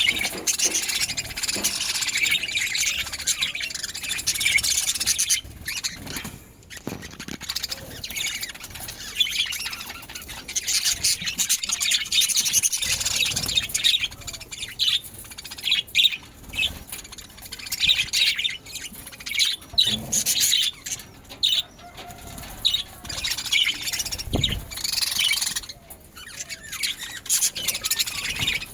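Budgerigars chattering: a dense run of quick, high chirps and warbles, broken by a few short pauses.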